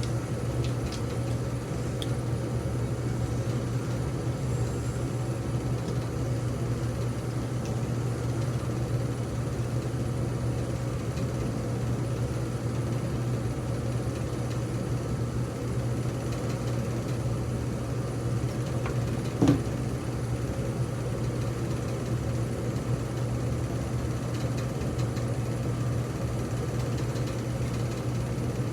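Dremel rotary tool running steadily with a freshly fitted bit, grinding into the ceiling fan's motor to get at the copper, with one sharp click about two-thirds of the way through.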